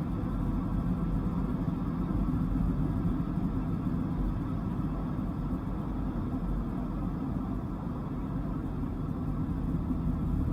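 Dodge Viper's V10 engine running steadily, a low rumble with no revving.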